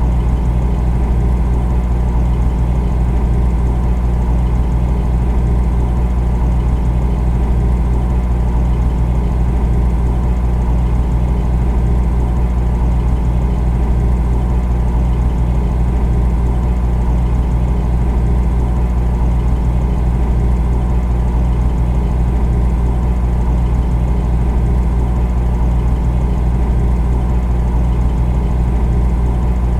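Refrigerator compressor running with a steady, unchanging low hum.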